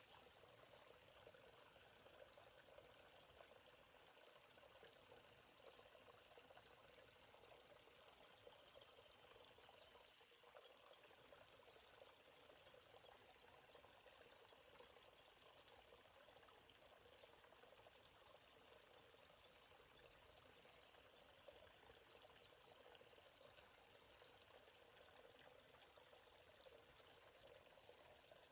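Steady high-pitched insect chorus, with a stream trickling and babbling faintly underneath.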